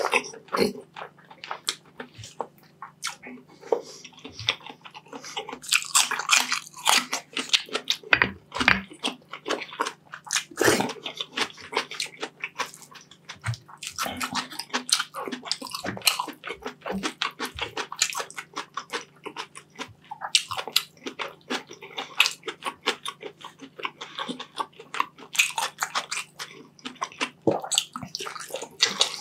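Close-up eating sounds of braised beef short ribs adobo: wet chewing, biting and sucking on saucy meat and fat, with a steady run of quick, irregular mouth clicks.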